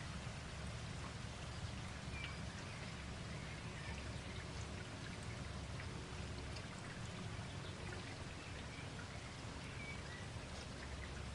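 Steady rainfall, a constant patter of raindrops on leaves and surfaces.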